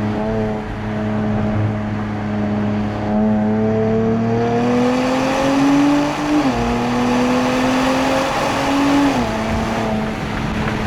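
Nissan Z Nismo's twin-turbo 3.0-litre V6, breathing through Nismo cold air intakes and a Nismo track exhaust, accelerating hard. The engine note rises steadily, drops sharply at an upshift about six seconds in, climbs again and drops at a second upshift about nine seconds in, then holds steady.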